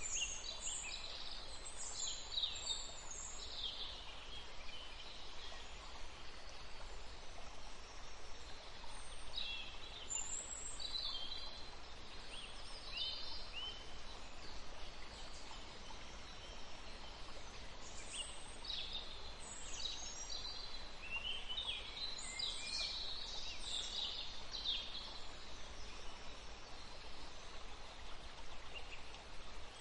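Songbirds chirping in bursts of quick, high, falling notes, three bouts in all, over a steady low background noise.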